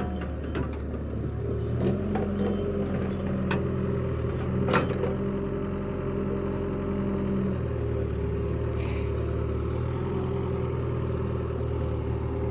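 Tractor engine running steadily, its note shifting about two seconds in and again past halfway, with one sharp knock near the middle.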